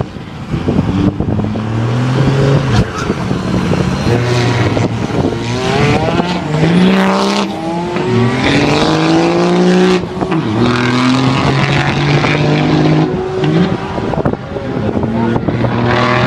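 Drag-racing engines under hard acceleration. The engine note climbs, drops back and climbs again several times as the vehicles pull away and shift gears.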